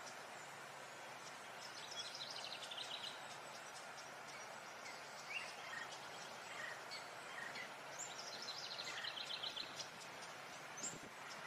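Birdsong over a steady outdoor hiss: quick high trills about two seconds in and again near nine seconds, with short chirps scattered between.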